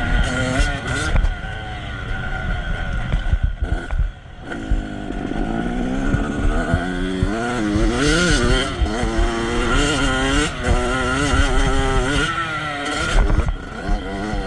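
Motocross motorcycle engine revving up and down repeatedly as it rides, dropping away briefly about four seconds in.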